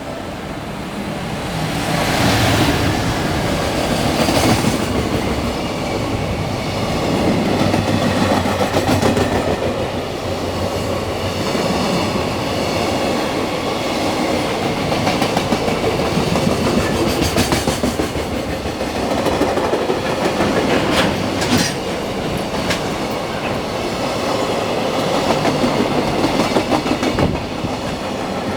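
Freight train passing, its wagons' wheels clicking in a steady rhythm over the rail joints.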